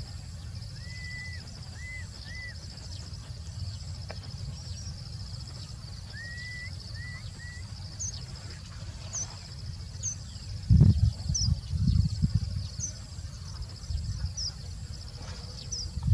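Countryside ambience: a steady, high pulsing insect trill, with birds giving short rising whistles early on and brief high chirps later. A loud cluster of low thumps comes about eleven seconds in, over a low rumble throughout.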